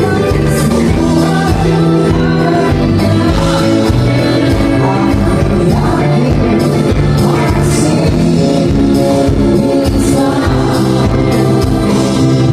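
Live band playing a song, with a singer over bass and drums.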